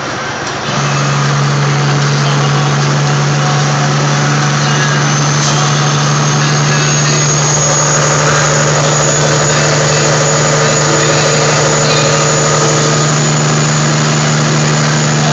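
Caterpillar 3406E diesel engine of a Kenworth W900A log truck running with a steady drone; about a second in it gets a little louder and higher, then holds steady.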